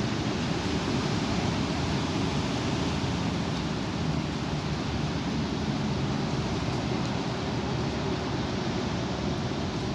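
Strong wind blowing, a steady dense rush with most of its weight in the low range.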